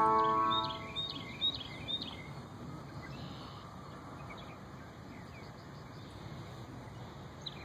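Small birds chirping, a quick run of high calls a few per second for about two seconds, then quieter, with another burst near the end, over steady outdoor background hiss. Ringing chime-like tones fade out in the first second.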